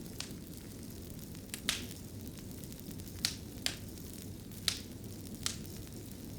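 Wood fire crackling: a steady low rumble of burning with about six sharp pops and snaps scattered through, the loudest a little under two seconds in.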